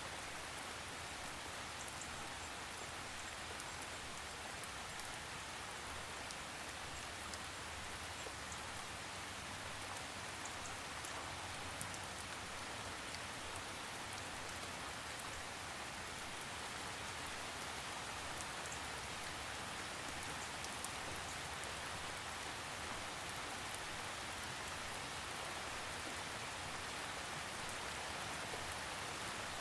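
Steady rainfall, an even hiss of rain with scattered drops pattering on a surface, without thunder.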